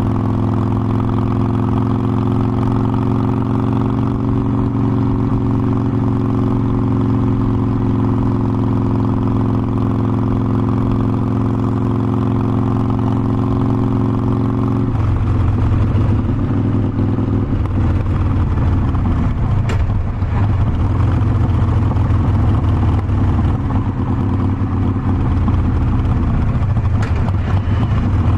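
Harley-Davidson Forty-Eight Sportster's air-cooled 1200 cc V-twin running under way, at first at a steady, even pitch. About halfway through the sound changes abruptly to a rougher, uneven low rumble, a little louder.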